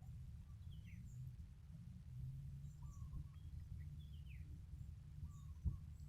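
Low rumble of strong wind on the microphone, with faint short bird chirps scattered through it and a single knock near the end.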